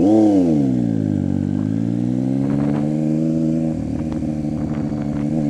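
Triumph Street Triple 675's three-cylinder engine through an unbaffled aftermarket exhaust: it revs sharply once at the start and falls back over about a second and a half. It then runs steadily, its pitch creeping up toward the end.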